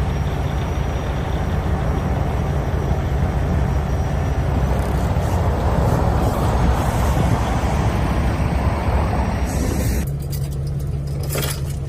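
Semi truck's diesel engine running steadily, with a loud rushing noise over it that stops suddenly about ten seconds in, leaving the engine idling; a few clicks near the end.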